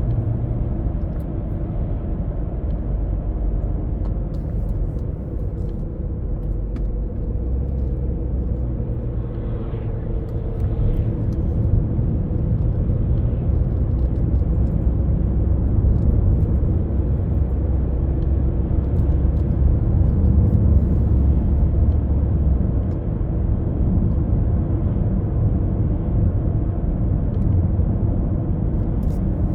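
Car driving along a road, heard from inside the cabin: a steady low rumble of engine and tyre noise that grows a little louder partway through.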